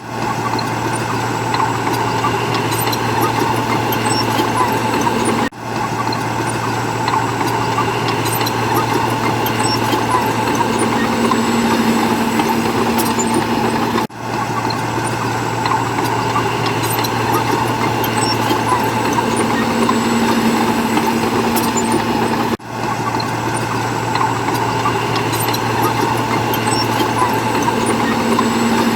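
Bulldozer's diesel engine running steadily with a low hum. The same stretch repeats as a loop, cutting out for a split second three times.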